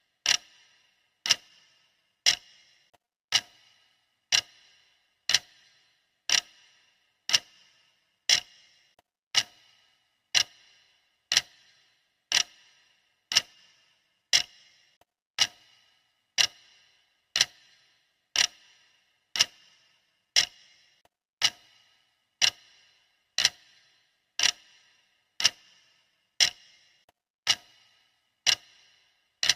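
Clock ticking, one sharp tick every second, steady and even, each tick with a short metallic ring.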